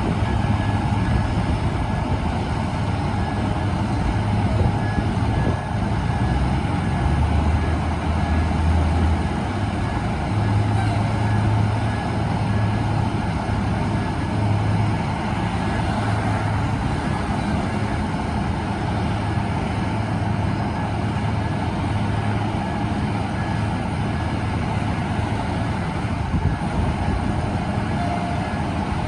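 Large diesel fire truck engine idling steadily, a continuous low rumble.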